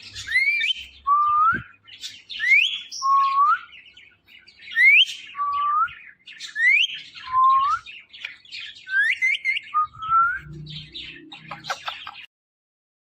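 Ringneck parrot repeating a short two-part rising whistled call about every two seconds, five or six times. It breaks into rapid chatter near the end, then the sound stops abruptly.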